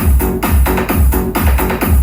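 Loud electronic dance music with a heavy bass kick about twice a second, played through a miniature battery-powered sound system with a 15-inch speaker box.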